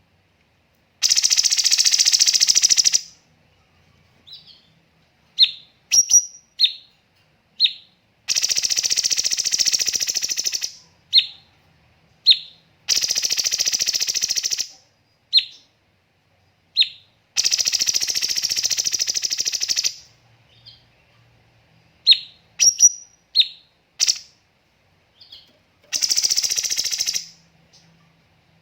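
Cucak cungkok bird singing: short, sharp, high whistled notes between five loud, rapid rattling bursts of about two seconds each (the 'tembakan', or shots, prized in this bird's song).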